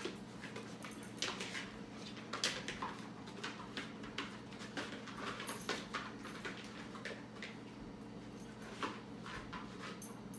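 Dogs moving about close by, making irregular sharp clicks and taps over a steady low hum.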